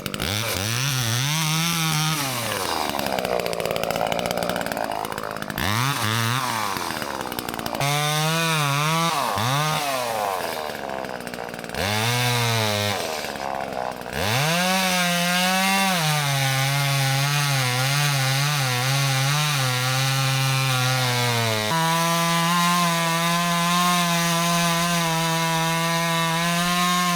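Two-stroke chainsaw cutting into a tree trunk. The engine revs up and drops back several times, then holds at steady high revs through the cut for the second half. It is cutting through a cracking tree to bring it down.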